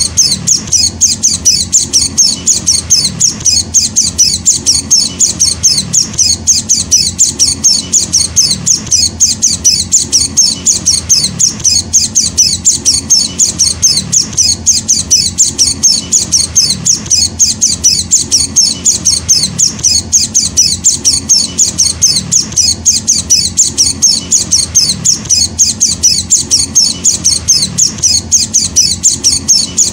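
Young white-eye chicks (Zosterops) begging: short, high-pitched chirps repeated about four or five times a second without a break.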